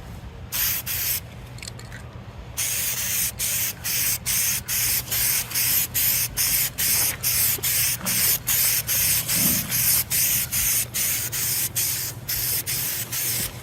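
Aerosol spray-paint can hissing in short repeated bursts, a few at first and then from about two and a half seconds in a quick regular run of roughly two to three bursts a second, as a light coat of paint is sprayed onto a steel M1 helmet shell.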